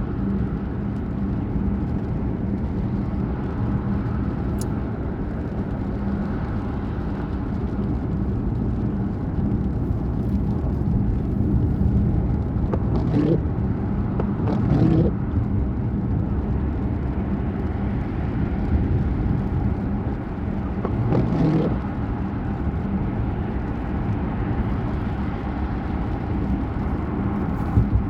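A car running at a steady pace, with a constant engine hum and road noise. A few brief louder sounds come through near the middle.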